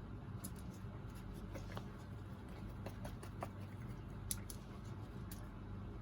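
Chow chow's claws scratching and scrabbling at the floor as it tries to dig its way out of the room, in short irregular scrapes and clicks over a steady low hum.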